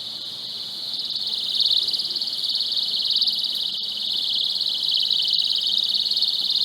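eAlarm personal alarm (sound grenade) sounding: a continuous piercing high-pitched shriek with a fast flutter, growing louder toward the end.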